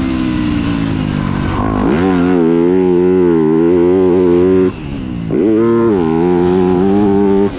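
Yamaha YZ250F's four-stroke single-cylinder engine being ridden hard. The revs fall off, then climb sharply about two seconds in and hold, cut off suddenly near the middle as the throttle is chopped, then climb and hold again before cutting off at the end.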